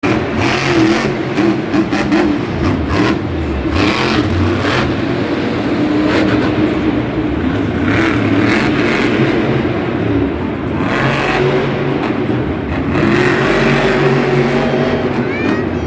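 Mohawk Warrior monster truck's supercharged V8 engine revving hard, loud and continuous, its pitch rising and falling with the throttle.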